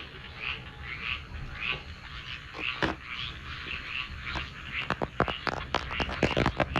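Frogs calling at night, short repeated calls about twice a second. From about five seconds in, a rapid run of sharp clicks joins them.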